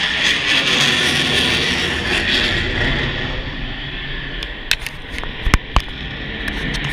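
Aircraft engine noise, steady at first and fading away over about three seconds, followed by a few sharp knocks and clicks about five seconds in.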